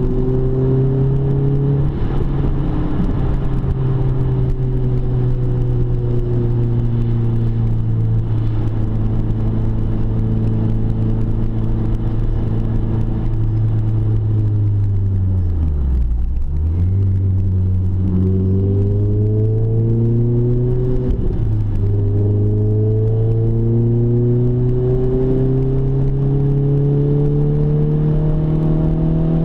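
Renault Clio 3 RS four-cylinder engine heard through a Ktec stainless catback exhaust while driving. The engine note sinks slowly, drops low about halfway through, then climbs steadily under acceleration, with a short break for a gear change a few seconds later.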